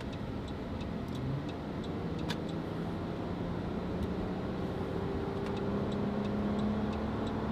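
Car driving: steady engine and road noise, the engine's hum rising slowly in pitch as it speeds up, with light ticks over it.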